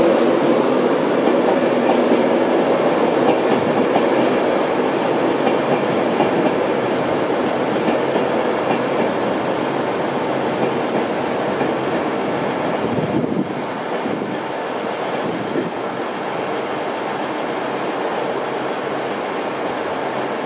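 Passenger coaches of an InterCity 225 train running past close by, a steady rumble of wheels on rail with fine clattering ticks, gradually getting quieter.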